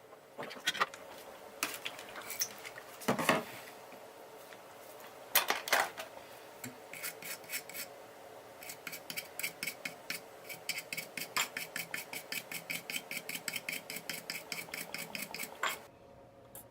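Light clicking and scraping of a small hand tool working on a phone circuit board. It is scattered at first, then turns into a quick, regular run of strokes about five a second in the second half, the kind of back-and-forth scrubbing used when cleaning a board after soldering.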